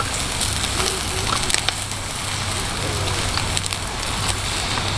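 Wood campfire crackling, scattered sharp pops over a steady hiss.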